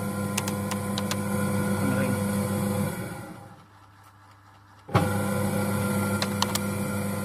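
Top-loading automatic washing machine's motor running in the spin-dry cycle with a steady hum and scattered light clicks. About three seconds in it winds down and goes quiet for a second or so, then cuts back in abruptly just before five seconds.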